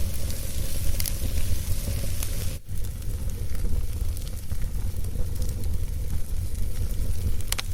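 Wood fire in a fireplace crackling: a steady low rumble and hiss with sharp pops now and then, broken by a momentary gap a little over two and a half seconds in.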